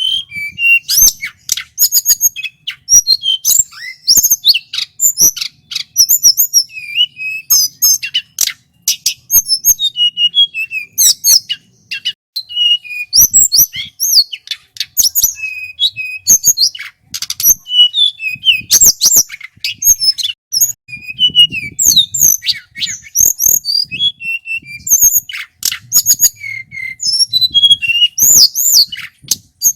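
Male tledekan gunung singing a fast, almost unbroken string of high chirps, whistled notes and sharp clicking notes.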